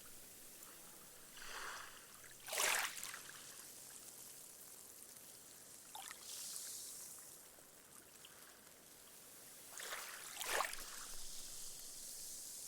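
Small, gentle waves lapping on a sandy beach. A wavelet breaks with a soft splash about two and a half seconds in, a smaller one near six seconds and another about ten and a half seconds in, each followed by the hiss of foam soaking into the sand.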